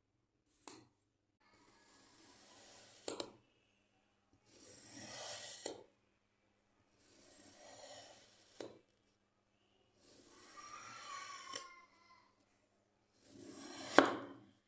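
Sand being sliced with a blade: about five separate gritty scraping strokes, each a second or so long, with silences between. Sharp clicks mark the ends of some strokes, the loudest near the end.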